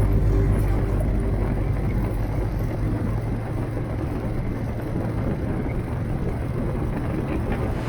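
Motorcycle under way: a steady low engine rumble mixed with road and wind noise.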